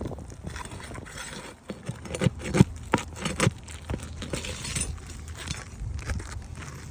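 Hand tools scraping and knocking on asphalt roof shingles as nailed shingles are pried loose, with a cluster of sharp knocks in the middle.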